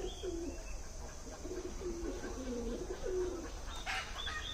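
Pigeons cooing, a run of low, repeated coos, with a brief higher bird chirp near the end over a steady low hum.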